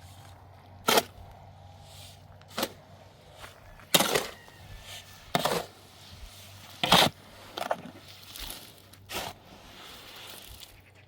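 Irregular knocks and scrapes, about seven of them at uneven gaps, over a low steady hum.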